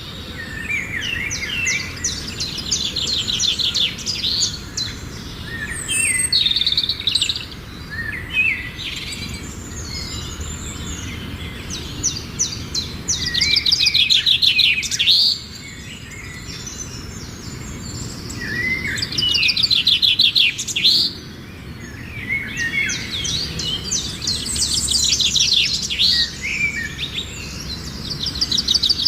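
A songbird singing a loud, varied song in phrases of rapid trills and whistled glides, each a few seconds long with short pauses between them.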